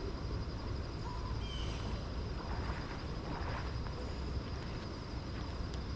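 Outdoor stream-side ambience: a steady high insect trill over a low rumbling noise, with a short bird chirp about a second and a half in and a brief rush of noise around three seconds in.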